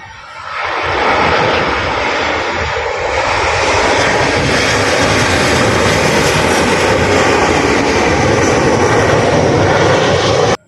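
Airliner's engines running loud as it passes close by. The noise swells in about a second in, holds steady, and cuts off abruptly near the end.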